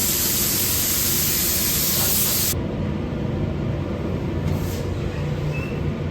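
Paint spray gun hissing steadily, then cutting off suddenly about two and a half seconds in. A steady low hum carries on underneath.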